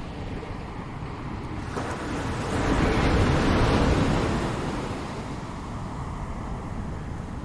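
Ocean waves breaking on a shore: a steady wash of surf, with one wave swelling and crashing about three seconds in, then drawing back to a softer hiss. Some wind noise on the microphone.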